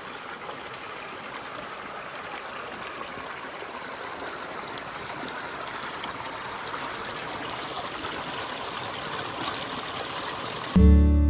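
A forest stream flowing steadily over rocks, an even rushing and trickling of water. Acoustic guitar music comes in suddenly near the end.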